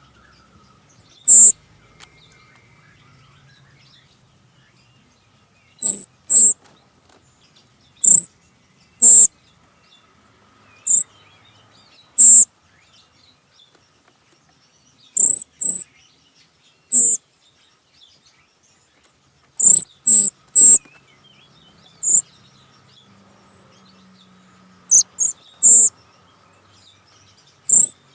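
A bird giving short, loud, sharp calls at irregular intervals, often two or three in quick succession.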